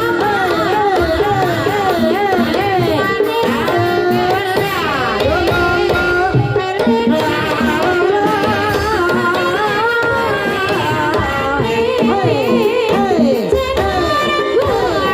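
Javanese gamelan music accompanying a kuda kepang (ebeg) horse dance: a singer's wavering vocal line over hand-played kendang drums and gamelan percussion, playing continuously.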